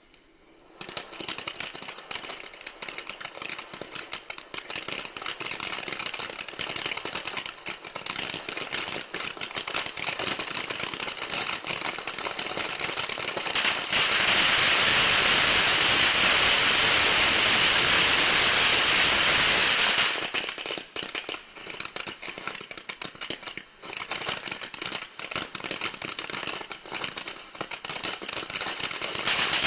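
Frog King firework fountain burning: rapid crackling pops over a hiss, starting about a second in. Midway it changes to a steady loud hiss for about six seconds, then the crackling returns, and it goes back to a steady hiss near the end.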